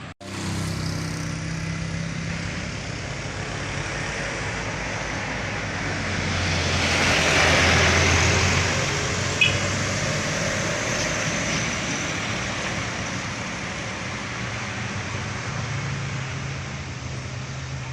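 Heavy trucks' diesel engines pulling hard up a steep grade, one passing close and loudest about seven to eight seconds in, with tyre and road noise. A short sharp click comes a moment after it passes.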